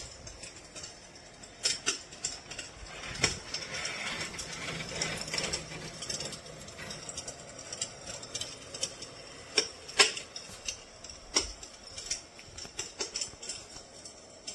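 An electric fireplace's simulated wood-fire crackling sound effect: irregular sharp pops and snaps over a faint hiss.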